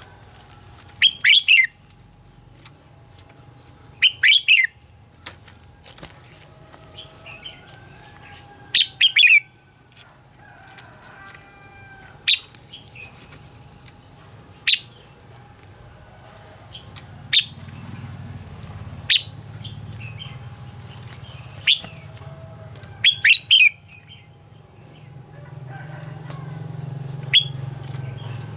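Red-whiskered bulbul singing: short, loud, quick-sweeping song phrases repeated every few seconds, with softer chirps between them. A low background hum grows louder in the second half.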